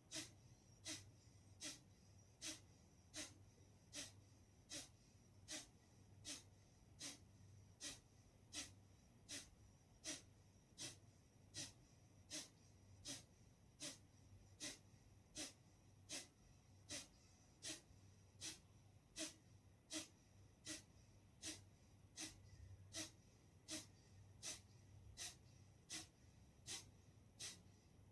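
Kapalbhati breathing: short, forceful exhalations through the nose in an even rhythm, a little more than one a second, each pushed out by a snap of the belly muscles.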